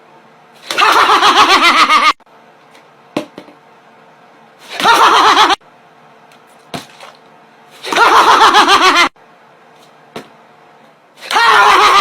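Four loud bursts of high-pitched, rapidly pulsing laughter, each falling in pitch at its end, with a faint steady hum and a few clicks in the gaps.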